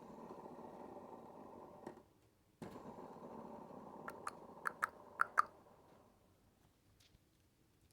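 Hampton Bay Littleton ceiling fan running with a steady whir that breaks off for about half a second near two seconds in, then resumes and fades away. A quick run of about six sharp, slightly ringing clicks comes in the middle.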